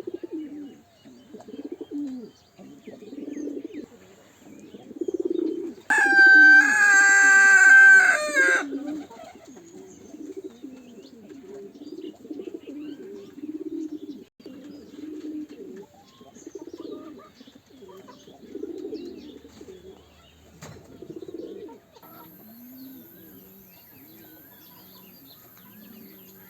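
Pigeons cooing over and over, low repeated coos with a rise and fall in pitch. About six seconds in, a loud, steady, high-pitched tone sounds for about two and a half seconds, dropping slightly just before it stops.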